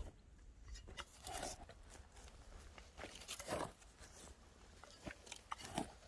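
Scattered crunching and rustling of dry plant stems, in a few short bursts a second or two apart.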